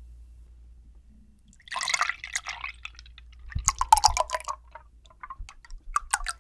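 Close-miked sticky, crackling sounds of donuts being picked up and bitten, in three bursts about two seconds in, at four seconds and near the end.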